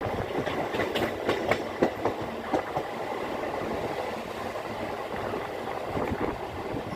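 MEMU passenger train running on the rails: a steady rumble with a cluster of sharp clicks from the wheels in the first few seconds, then an even running noise.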